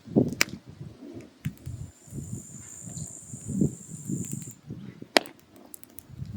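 Firewood burning in a mangal, crackling with irregular sharp pops over the low flutter of the flames.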